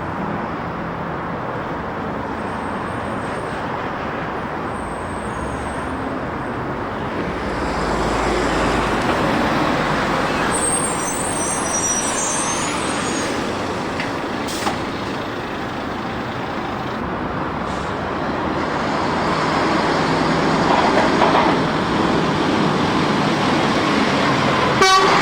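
Road traffic with heavy trucks passing, the noise swelling twice as vehicles go by. A brief high hiss comes a little before the middle.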